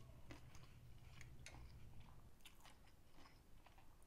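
Faint chewing of sushi close to the microphone: soft, irregular mouth clicks, with a low hum that stops a little over halfway through.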